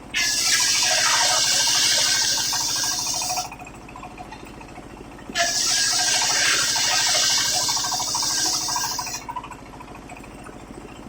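Sawmill circular blade ripping waru wood into battens: two cuts of about four seconds each, each starting suddenly with a loud hiss, and the blade spinning much quieter between them.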